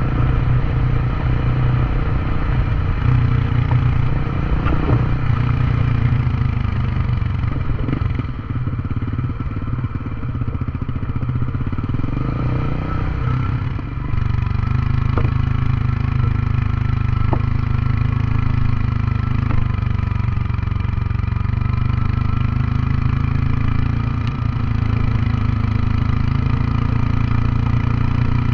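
Honda CB150X motorcycle's single-cylinder engine running in gear on a downhill, used for engine braking with the throttle closed. The engine note falls and rises again between about four and fourteen seconds in, then holds steady.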